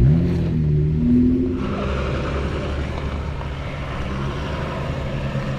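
Four-wheel-drive engine revving up and easing off as the vehicle climbs through an off-road track, with a steady rushing noise joining from about a second and a half in.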